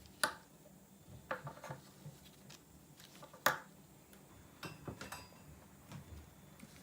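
Small hard objects being handled: two sharp clicks about three seconds apart, with clusters of lighter taps and rattles between and after them.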